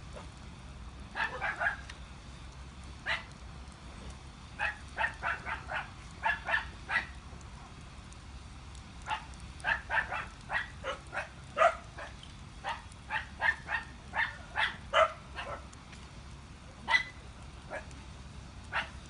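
A dog barking repeatedly, in runs of several short barks with pauses between them, over a steady low hum.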